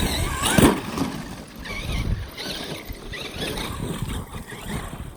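Traxxas X-Maxx RC monster truck driving, its brushless electric motor whining up and down in pitch with the throttle over a rough low rumble.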